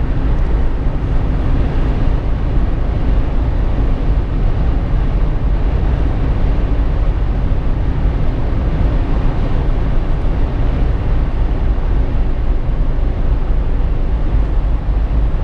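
Jeep Wrangler JK cabin noise while driving: a steady, loud low rumble of road, tyre and wind noise with the engine underneath, unchanging throughout.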